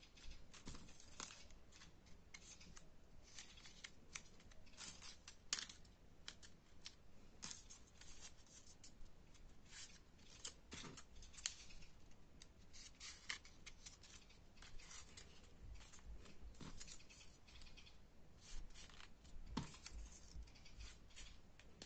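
Folded paper origami pieces crinkling and rustling as they are handled and slotted together, in short, irregular, faint crackles.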